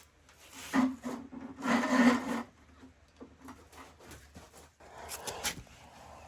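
Rubbing and scraping of hard parts being handled and pressed together. There are two louder rubs, about a second and two seconds in, then fainter scrapes and a few light clicks near the end.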